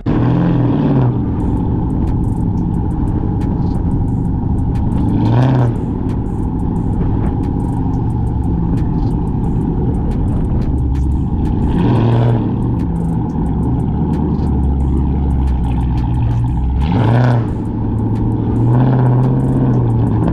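Cammed, catless, straight-piped Chrysler 300C V8 exhaust while driving, a loud lumpy drone. The engine revs up and back down at the start, about five seconds in, around twelve and seventeen seconds, and again near the end.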